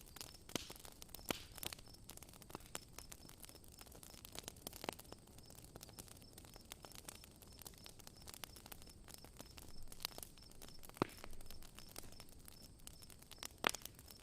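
Wood campfire crackling, with irregular sharp snaps and pops, one of the loudest near the end.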